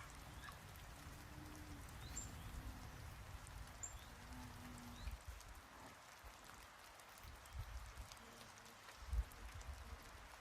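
Faint outdoor ambience: an uneven low rumble of wind on the microphone under a light hiss, with scattered small clicks and one louder knock about nine seconds in.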